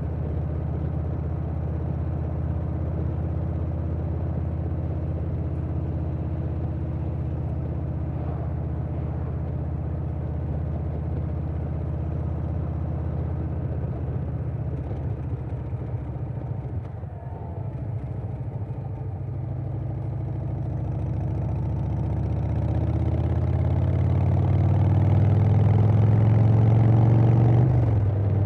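2020 Harley-Davidson Softail Standard's Milwaukee-Eight V-twin, breathing through a Vance & Hines Big Radius 2-2 exhaust, running under way at a steady cruise. A little past halfway it eases off briefly, then accelerates with a rising pitch and getting louder, dropping off briefly near the end.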